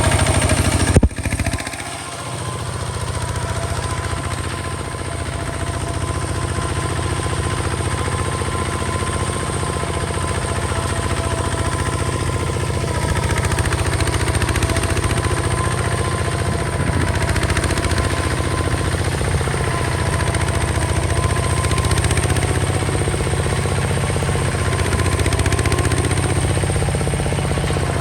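Hinota HG Gold 155 DI tractor's direct-injection diesel engine running steadily with a fast, rhythmic chug. A sharp click comes about a second in; the sound drops briefly after it and builds back up over the next few seconds.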